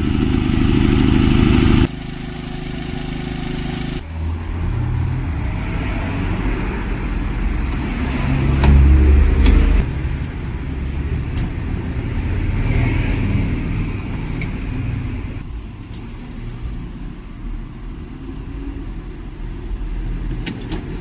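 Engine noise from motor vehicles, a low steady hum that shifts in pitch and level several times, loudest a little before the middle.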